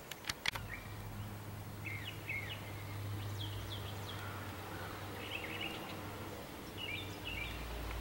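Birds chirping outdoors: short chirps with quick pitch slides, in clusters every second or two, over a low steady hum. A few sharp clicks come about half a second in.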